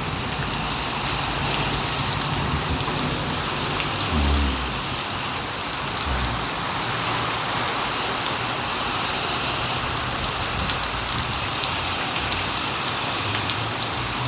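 Heavy rain falling steadily on surfaces, with a couple of brief low thumps about four and six seconds in.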